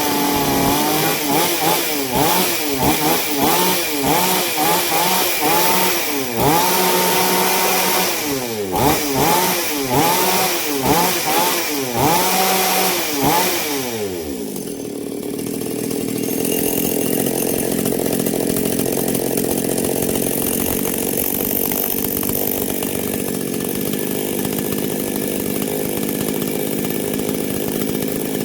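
Two-stroke chainsaw engine running on test after a cylinder and piston change, revved up and down over and over for about the first half. About halfway through it drops back briefly and then runs steadily at an even speed.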